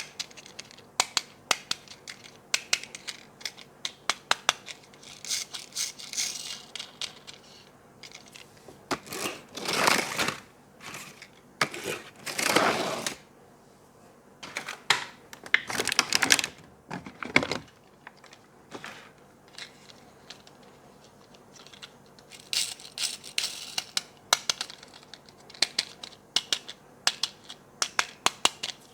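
Toy packaging being opened by hand: many sharp clicks and taps of plastic and cardboard, with a few longer tearing or crinkling sweeps of about a second each.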